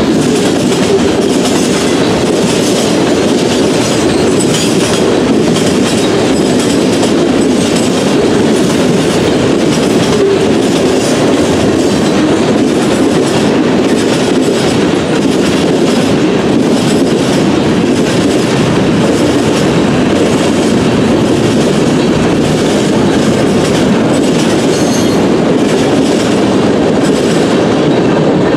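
Railroad cars rolling past at track speed: a steady rumble of steel wheels on rail, with the wheels clicking repeatedly over rail joints.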